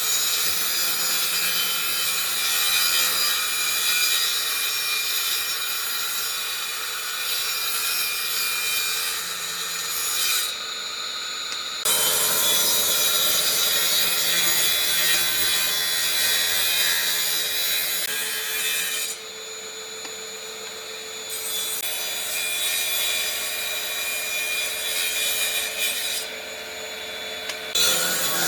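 A tool cutting or abrading wood, a steady scraping noise that changes suddenly several times.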